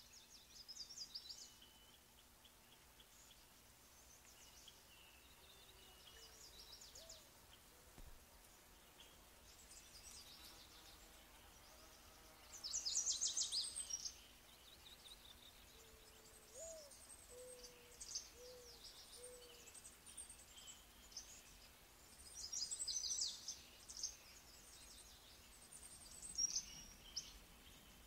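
Small birds twittering in bursts of rapid high chirps, loudest about halfway through and again about four-fifths through, over a faint steady low hum.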